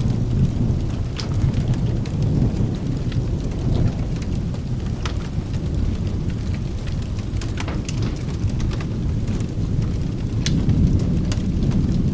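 Steady rain with a continuous low rumble of rolling thunder, stronger near the start and the end. Scattered sharp clicks sound over it.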